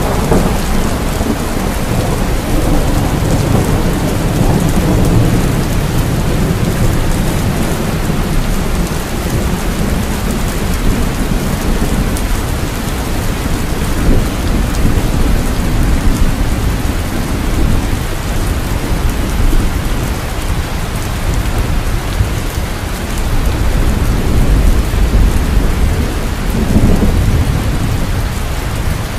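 Steady heavy rain with low, rolling thunder rumbling beneath it. The rumble is strongest near the start and swells again about twenty-five seconds in.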